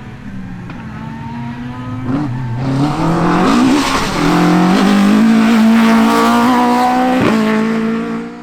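Rally car engine being driven hard, revving up and dropping back through gear changes, getting louder about two seconds in as the car comes closer.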